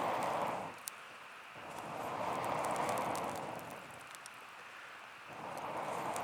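Air blown in long puffs through a bamboo fire-blowing tube into a campfire, with a short pause between puffs, and small crackles from the embers.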